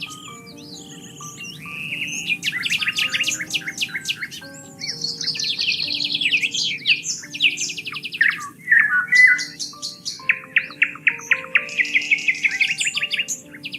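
Songbirds singing: rapid repeated trills and quick chirps, overlapping and changing from phrase to phrase. Underneath is soft music with slow, held notes.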